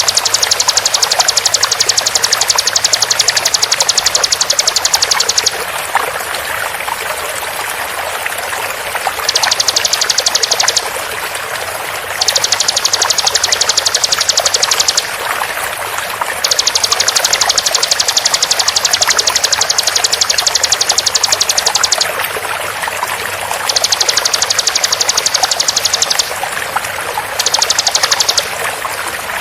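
Bar-winged prinia (ciblek) repeating a very fast, dense, high-pitched trill in about six bouts of one to several seconds, over the steady hiss of running water.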